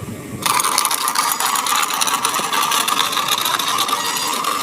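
Toy helicopter's gear motor running, a rapid rattling whirr of clicks that starts about half a second in and stops near the end.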